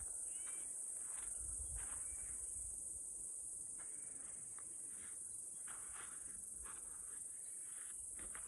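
Faint outdoor ambience: a steady high-pitched insect buzz, like crickets, with a few short faint chirps and patches of low wind rumble.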